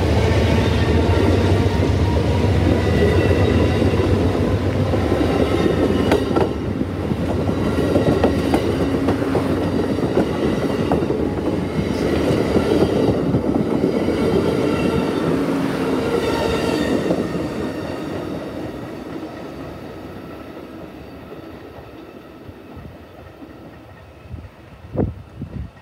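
Amtrak passenger train rolling past, its wheels running over the rails with occasional clacks at rail joints. The sound holds steady, then fades away over the last several seconds as the train pulls out.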